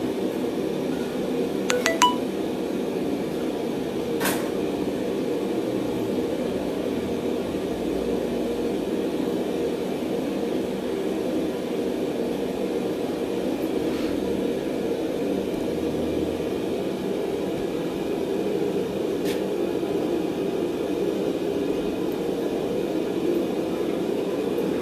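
Steady mechanical hum of a forge running, with a few faint metallic clinks near the start.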